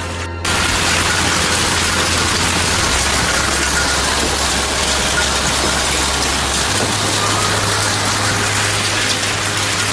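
Loud, steady rushing noise that cuts in abruptly about half a second in, over low sustained music notes that shift in pitch twice.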